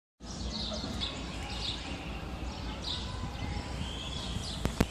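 Birds chirping: short high chirps about once a second over a steady low rumble. Two sharp clicks near the end.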